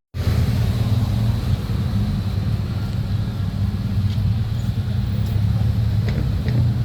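Motor vehicle engine running steadily, a loud low hum.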